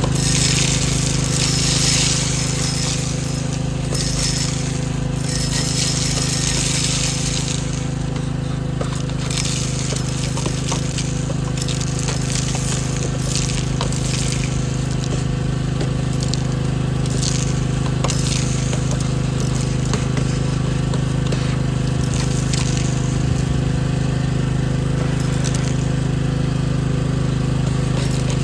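A machine hums steadily and low throughout, with irregular high scraping and clinking noises on top, busiest in the first few seconds and again a little before the middle.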